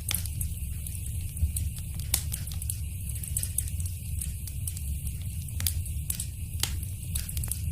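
Fire crackling in a fireplace: a steady low rumble of flames with many small ticks and several louder, sharp pops scattered through.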